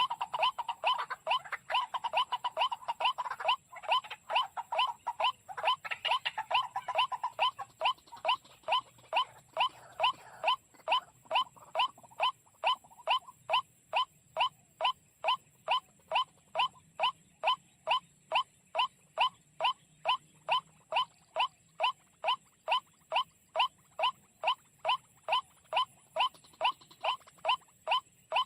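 Short, sharp bird calls repeated in an even rhythm about twice a second, like a calling decoy bird. Through the first half they come thicker, with extra chirps overlapping; after that a single steady series goes on.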